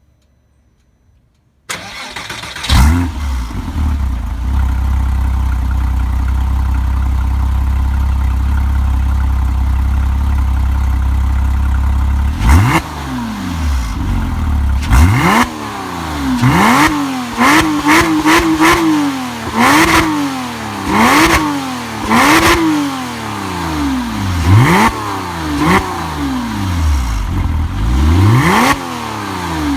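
Porsche Cayman S flat-six engine breathing through a Fister aftermarket exhaust. It starts a couple of seconds in with a brief flare, then idles steadily for about ten seconds. From about halfway it is blipped through a series of about a dozen quick revs, each rising and falling in pitch.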